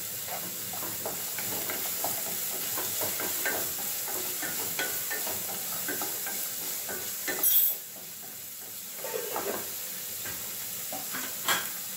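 Chopped amaranth stems sizzling in a black wok as a wooden spatula stirs and scrapes them: a steady frying hiss under many small, uneven spatula strokes. A brief louder clatter comes about halfway through, and a sharp knock near the end.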